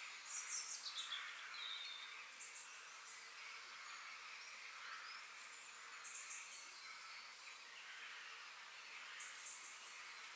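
Faint forest ambience with birds calling: short clusters of high chirps recur every few seconds, the loudest near the start along with a falling whistle, over a steady soft hiss of background birdsong and insects.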